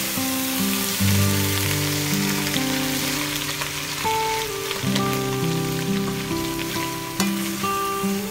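Raw chicken sizzling in hot oil in a metal rice-cooker pot as it is stirred with a metal ladle, a steady hiss that starts suddenly as the meat goes in. Background guitar music plays over it.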